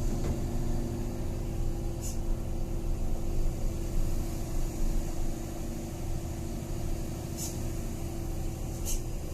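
Truck's diesel engine running at a steady note, heard from inside the cab on the move, with three short high hisses about 2, 7 and 9 seconds in.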